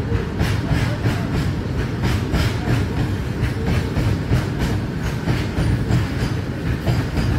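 A long goods train of open freight wagons rolling past close by: a steady heavy rumble with a rapid, regular clickety-clack of the wagon wheels running over the rail joints.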